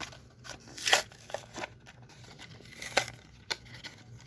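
Toy packaging being torn and crinkled open by hand, with several sharp snaps and rips; the loudest come about a second in and near three seconds.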